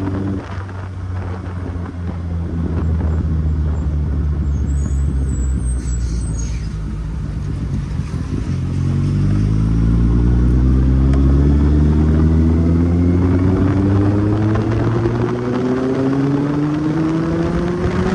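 Kawasaki Z800 inline-four engine running on the move, with road and wind noise. About halfway through the pitch drops, then climbs steadily as the bike pulls hard through one gear.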